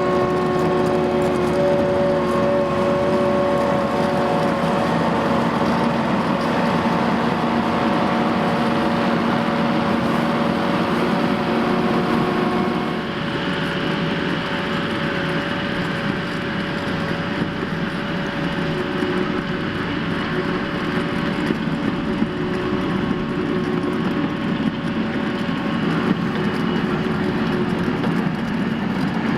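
Gehl skid steer loader working a grade blade over stone: its engine runs steadily under load with a constant whining tone on top. About halfway through, the machine's note drops slightly and the whine changes pitch.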